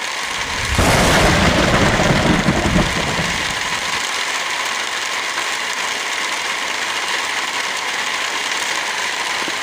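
Steady rain hiss. A loud low rumble of thunder comes in about a second in and fades out over the next three seconds.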